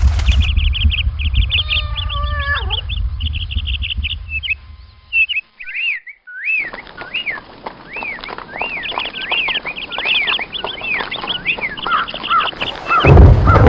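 Bird-like chirping: quick runs of short, high arched chirps, broken by a brief gap about five seconds in, over a low rumble that drops out at that gap and comes back near the end.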